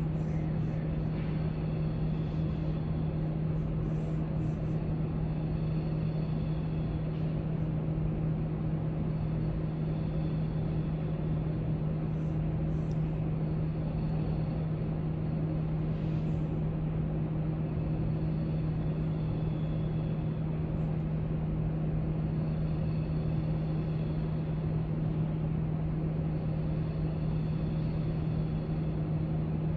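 Steady library room noise: a constant low hum and rumble, with faint small clicks and taps scattered through it.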